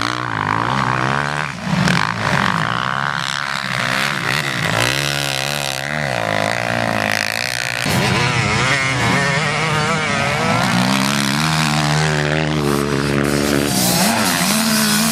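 Several motocross motorcycle engines running at once, their pitch rising and falling constantly as the riders rev and shift.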